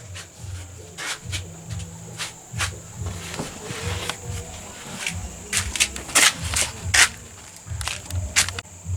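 Irregular clicks and taps of hand work on a small metal toy car, a few sharper knocks clustered past the middle, over a low hum.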